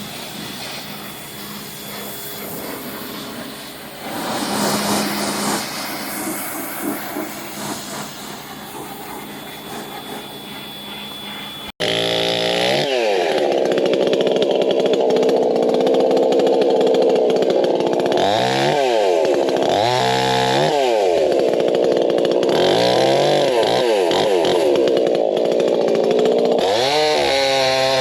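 A steady rushing machine noise, then after a sudden cut a two-stroke chainsaw running loud, revving up and dropping back again and again as it cuts.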